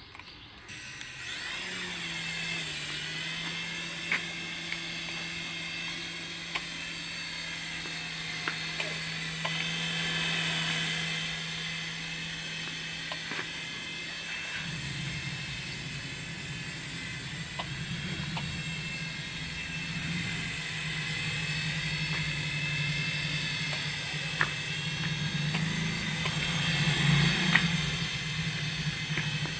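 Small electric toy motors whining steadily, with a low hum under them, starting about a second in; the hum turns rougher about halfway through.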